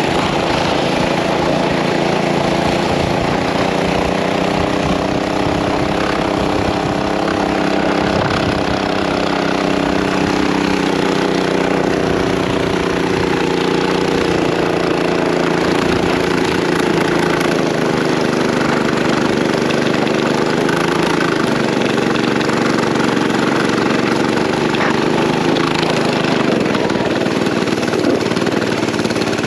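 Mini bike's small engine running steadily under throttle while towing a sled, its pitch sagging slowly and then holding steady.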